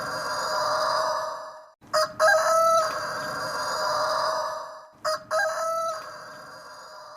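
Rooster crowing repeatedly: one crow trails off early, then two more long crows start about two and five seconds in, each lasting about three seconds.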